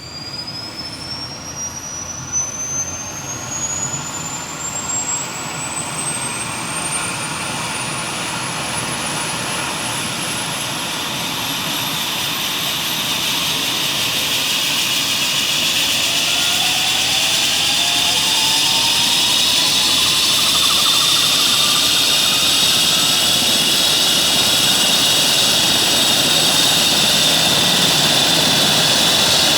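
Eurocopter EC135 T2 helicopter's twin Safran Arrius 2B2 turboshaft engines spooling up: a high turbine whine rises steadily in pitch while the sound grows louder throughout. A second, lower whine rises about halfway through.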